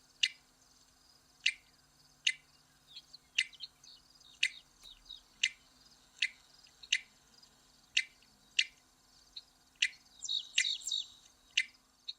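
Western meadowlark giving its common 'chup' call: short, sharp call notes repeated about once a second, with a brief patch of softer twittering near the end.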